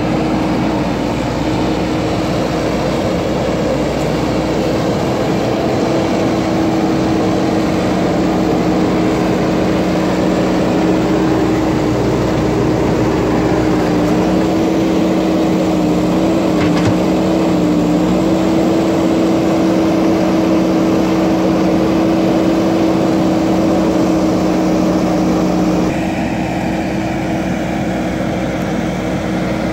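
JCB backhoe loader's diesel engine running steadily while working, with a brief dip and wobble in pitch about two thirds of the way through and a change in tone near the end.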